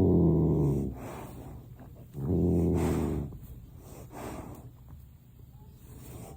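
A pet animal's low, drawn-out vocal call, heard twice, each about a second long, with softer breathing or snuffling sounds between them.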